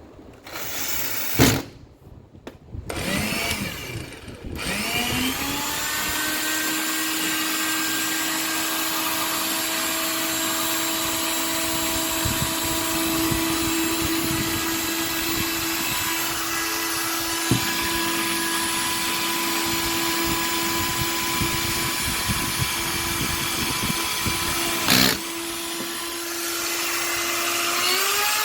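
Makita M9510 angle grinder running: after a couple of knocks, its motor spins up with a rising whine about four seconds in and then runs at a steady pitch, rising in pitch again near the end.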